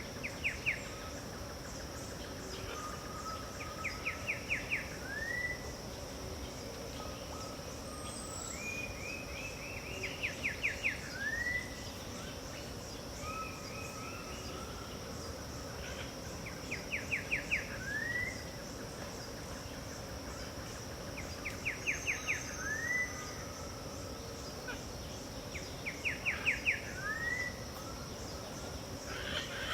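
A songbird repeating the same short phrase about every four seconds: a quick run of rapid notes followed by a single rising, slurred note. A steady high insect drone and a lower steady hum run underneath.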